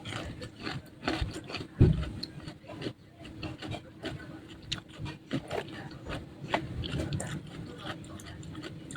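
Close-miked eating sounds: irregular crunching and chewing of crispy spicy fried food, with one louder thump about two seconds in.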